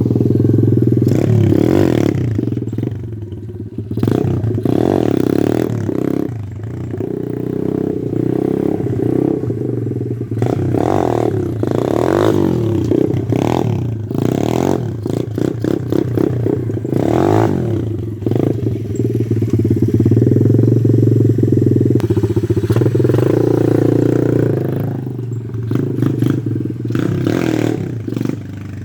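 Pit bike engine being ridden, its revs repeatedly rising and falling as the throttle is opened and closed, as when blipping the throttle to lift the front wheel for a wheelie.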